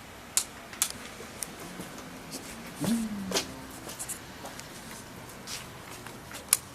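A few light, sharp clicks spread out over several seconds, typical of motorcycle handlebar switches being worked during a lights and signals check, with a short voice-like sound about three seconds in.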